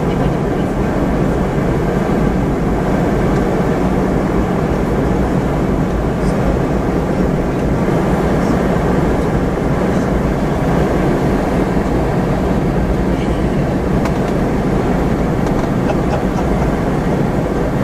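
Steady cabin noise inside a Boeing 717-200 in flight on descent: a constant rush of airflow over the fuselage with a low hum from its rear-mounted Rolls-Royce BR715 turbofans.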